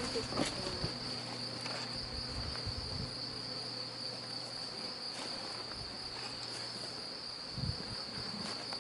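A steady high-pitched insect trill, like crickets, with bees buzzing around a swarm being hived. There are a few knocks shortly after the start and a dull thump near the end.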